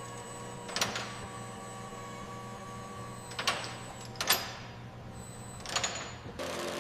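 A steady electrical hum with four short sliding or scraping noises, about a second in, twice near the middle, and once near the end.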